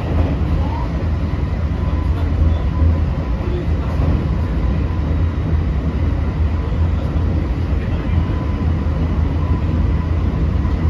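Running noise inside a JR West 225 series intermediate motor car with a Toshiba IGBT VVVF inverter, travelling at speed. A steady low rumble from the motors and the wheels on the rails, with a faint thin steady whine above it.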